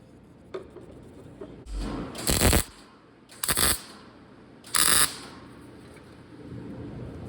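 Three short welding tacks on sheet-steel firewall panels, each about half a second long and about a second apart.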